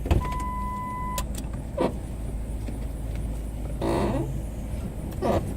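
Truck engine running with a steady low rumble. Just after the start comes a one-second electronic beep, and later three short bursts of noise.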